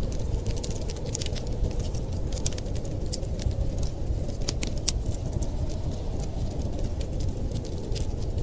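Wood fire crackling, with many sharp irregular pops and snaps, over a steady low rumble.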